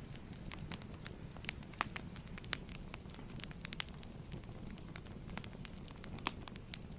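Wood fire crackling: irregular sharp pops and snaps over a low steady rumble, with the loudest pop about six seconds in.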